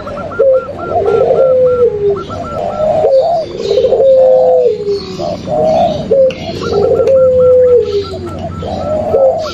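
Mixed cooing of zebra doves (perkutut), spotted doves (derkuku) and long-voiced puter pelung doves, used as a lure call. Low coos repeat every second or two, each ending in a long drawn note that falls away. A quick run of short, higher coo notes comes in at the start and again about two-thirds of the way through.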